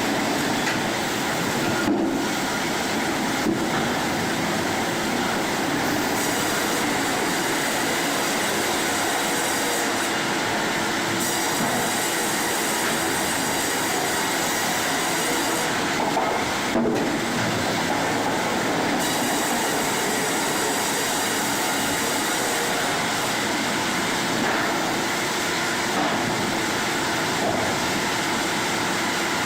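Steady mechanical din of sawmill machinery running, a continuous rattling clatter with a few brief changes in the noise.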